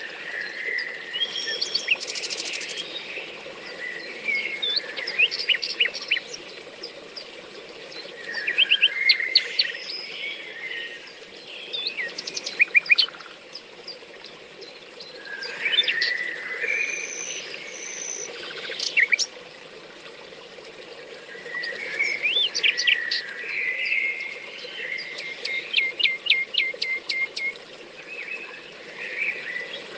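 Songbirds singing: clusters of quick chirps and fast trills every few seconds, with a run of rapidly repeated notes near the end, over a steady low rushing sound.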